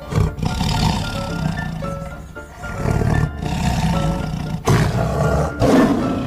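A large wild animal roaring and growling in several loud surges, over background music.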